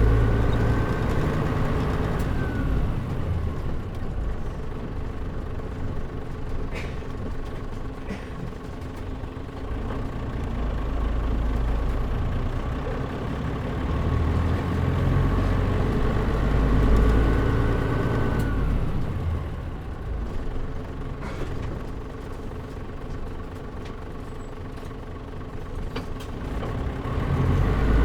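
Mitsubishi Fuso KL-MP37JM city bus's diesel engine heard from inside the cabin while driving. The engine note climbs and then drops about two seconds in, builds again to a peak around two-thirds of the way through and falls away, with a quieter stretch near the end.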